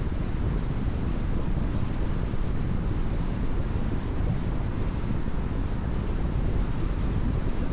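Steady road noise of a car cruising on a wet expressway in the rain: a constant low rumble with tyre hiss on the wet surface, unchanging throughout.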